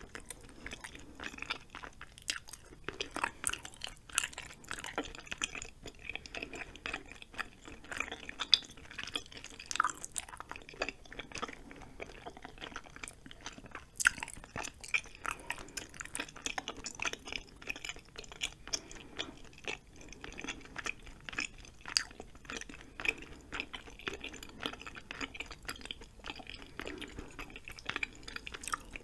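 Close-miked chewing of soft, chewy food (cheesy spicy ramen noodles and rice cakes), with a steady run of small wet mouth clicks and smacks.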